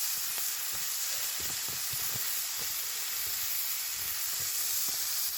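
Bear burgers sizzling in a cast-iron pot on campfire coals: a steady frying hiss with scattered small pops.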